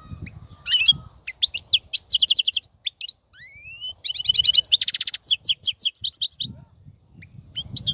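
European goldfinch singing: quick twittering phrases with fast trills and a couple of rising whistled notes, breaking off to a few scattered notes near the end.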